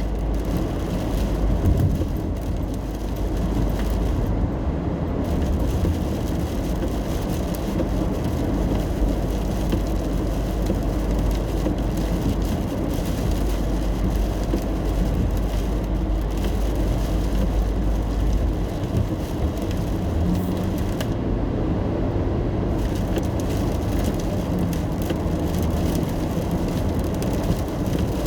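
Car driving in the rain, heard from inside the cabin: a steady road and engine rumble with the hiss of rain and tyre spray. The deep rumble eases about two-thirds of the way through, and the high hiss drops away briefly twice.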